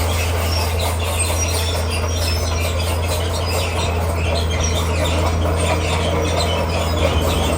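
Komatsu D41P crawler bulldozer working: its diesel engine runs steadily, with many short high squeaks and scraping from the tracks and the rock being pushed.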